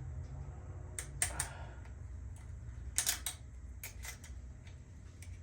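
Scattered sharp clicks and taps of small metal bicycle parts being handled and fitted by hand, in small clusters, over a low steady hum.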